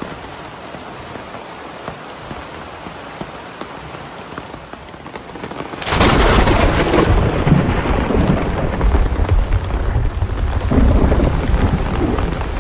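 Steady heavy rain, then about halfway through a sudden loud thunderclap that crashes in and rolls on as a deep rumble under the rain.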